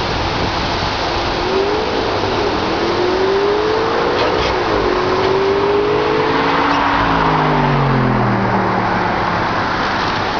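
A vehicle engine rises in pitch over a few seconds and then falls away, like a vehicle passing, over a steady loud rushing noise.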